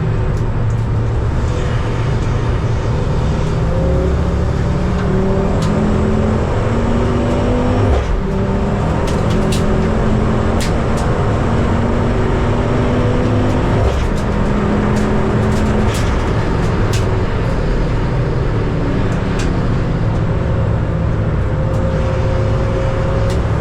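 Modified Ford Series race car's engine at full throttle, its pitch climbing steadily through each gear and dropping back at every shift, several times over, with occasional sharp clicks.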